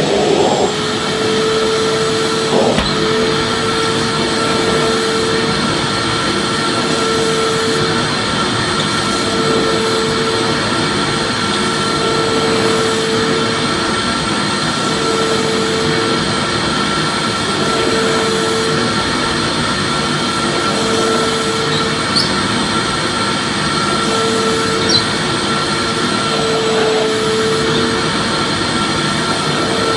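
Vacuum cleaner motor running steadily, an even rushing noise with a constant whine, and a lower hum that swells and fades every two seconds or so.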